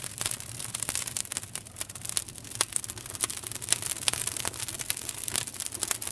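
Wood campfire crackling and popping: irregular sharp pops and snaps, some louder than others, over a steady hiss of the burning fire.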